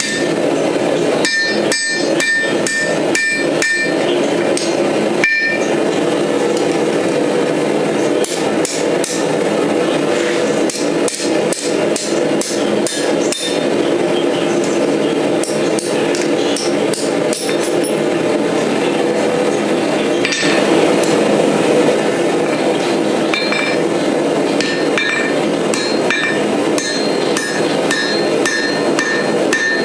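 Hand hammer forging steel on an anvil: a long series of blows, with the anvil and workpiece ringing on each strike near the start and again near the end.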